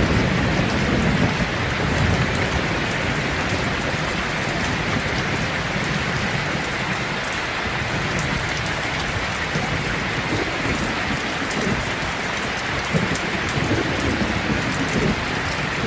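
Steady rain falling, with low rumbles of thunder, the strongest in the first couple of seconds.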